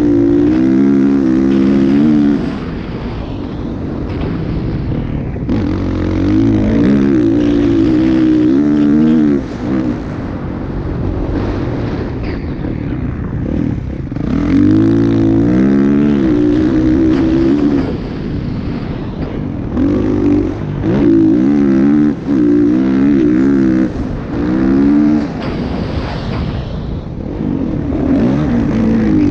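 Motocross bike engines revving, their pitch climbing and dropping over and over, growing louder for a few seconds at a time and easing off in between.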